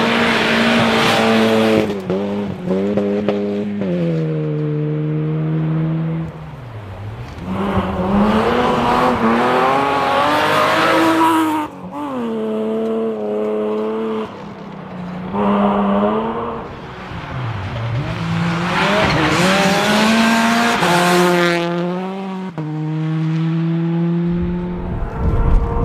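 Rally cars at full speed on a special stage. The engine note climbs and drops again and again through gear changes and lifts for corners. The sound breaks off abruptly and a different car takes over about twelve seconds in and again near the end.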